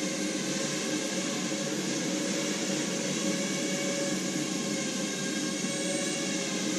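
Quadrotor's electric motors and propellers in flight, a steady multi-toned hum that holds level with no breaks.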